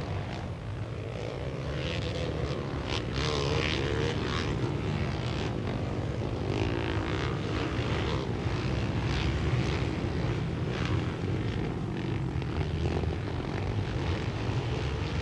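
A pack of racing quads (ATVs) on a dirt flat track, their engines making a continuous drone together, with revs rising and falling.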